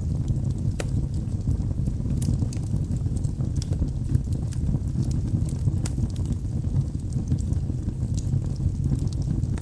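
Wood logs burning in a fireplace: a steady low rumble of the flames with frequent irregular sharp crackles and pops.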